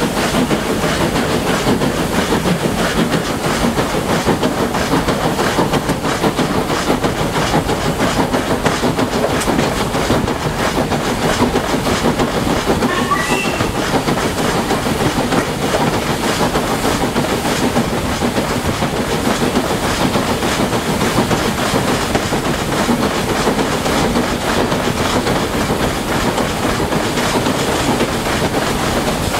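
Steam-hauled train carriages running steadily up a gradient, heard from an open carriage window: a continuous rumble and clatter of wheels on the rails. A few brief high chirps come about halfway through.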